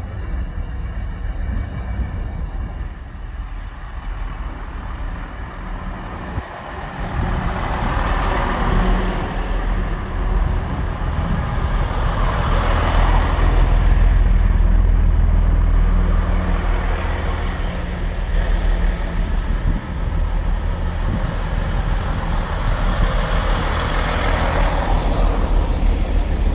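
A train running into a station platform. Its low engine rumble grows louder from about a quarter of the way in and stays strong to the end.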